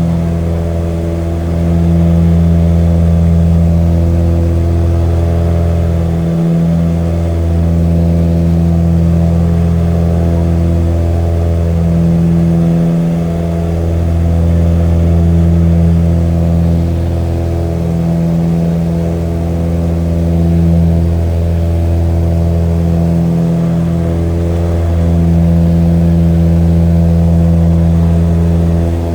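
Aircraft engine droning steadily at an even, unchanging pitch, with slow small swells in loudness.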